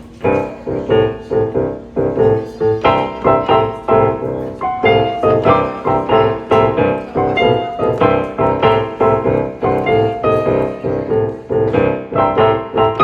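Piano music: a steady run of struck chords and notes, starting suddenly at the outset.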